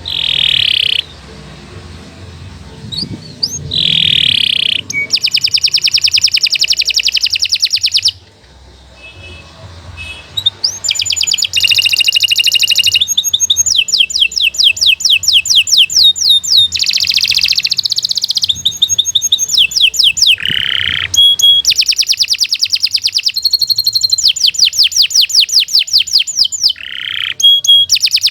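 Domestic canary singing long, fast rolling trills of rapidly repeated high notes. The trills are broken by short pauses, with a quieter stretch about eight to ten seconds in.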